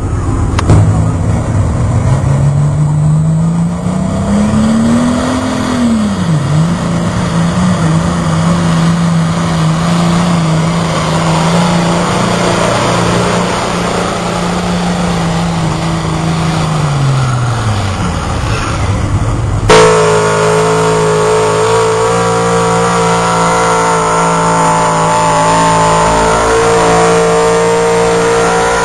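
Pulling truck's engine revving up under load, dipping once, holding steady at high revs for about ten seconds, then winding down. After an abrupt cut, another engine runs at a steady pitch.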